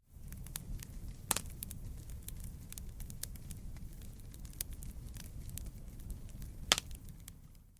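Wood fire crackling, with many small snaps, two louder pops about a second in and near the end, and a steady low rumble underneath. It fades up from silence at the start and fades out at the end.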